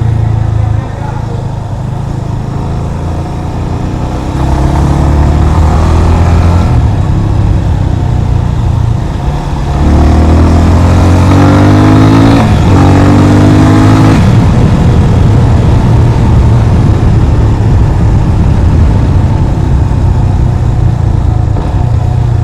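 Yamaha FZ25's single-cylinder engine under way, accelerating in rising pulls with a gear change between two of them about twelve seconds in, then running steadily.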